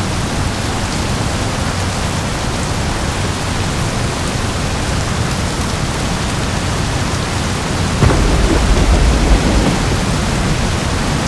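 Steady heavy rainfall with a thunderstorm. About eight seconds in, a clap of thunder breaks in and rumbles low for a second or two before fading back under the rain.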